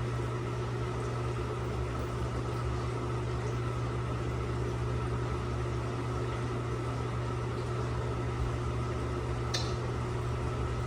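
Steady low mechanical hum with a faint higher tone, like an appliance motor or fan running, and a single short click near the end.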